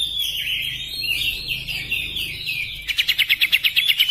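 Oriental magpie-robin (kacer) singing a fired-up, varied warbling song, which changes about three seconds in to a fast trill of about ten repeated notes a second.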